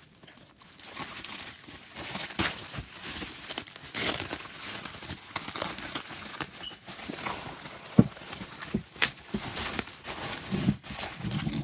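Hands handling a tarot deck and its packaging: irregular rustling, crinkling and light clicks, with a sharp knock about eight seconds in and a few soft thuds near the end.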